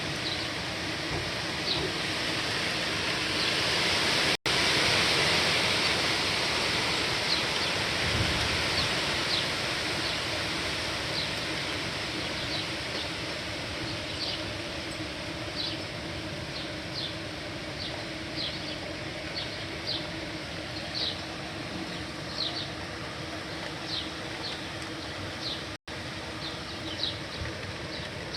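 Steady hiss of heavy rain, heaviest about five seconds in, with short high chirps from birds or insects repeating through it and growing more frequent later. The sound cuts out briefly twice.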